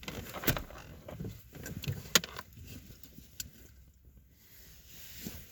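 Rustling of clothing and gear with a few sharp clicks and knocks as someone shifts about and handles things inside a vehicle's cabin.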